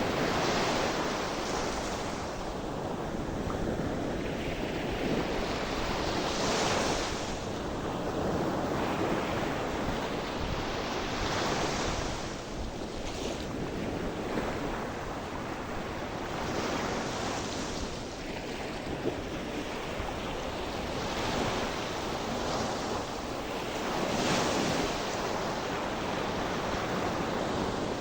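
Gentle sea surf: waves breaking and washing ashore in slow swells every few seconds, with wind on the microphone.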